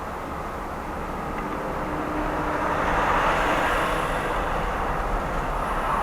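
Steady road and traffic noise from a car driving in city traffic, swelling louder about halfway through and staying up.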